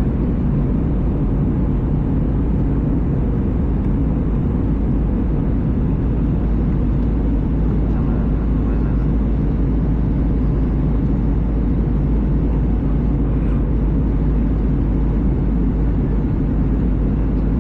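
Steady cabin noise inside an Airbus A320: an even, loud rumble of engines and rushing air.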